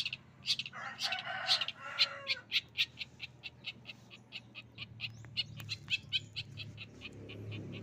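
Caged songbird singing a fast series of short, sharp, high notes, about four or five a second, in the rapid-fire 'tembakan' style prized by Indonesian bird keepers. A harsher, lower rasping phrase comes about a second in.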